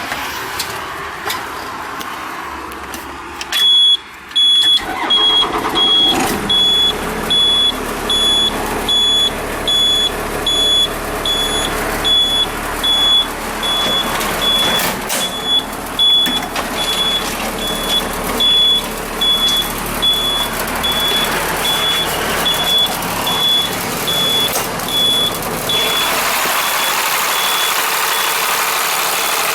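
Electronic warning beeper on a 1995 Blue Bird TC2000 school bus, sounding a steady high beep a little more than once a second over the bus's running noise. The beeping stops about four seconds before the end, and a louder steady noise takes over.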